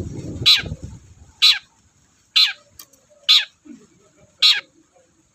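Long-tailed shrike (cendet) giving a series of short, harsh calls, about one a second, five in all, with a low rumble under the first second.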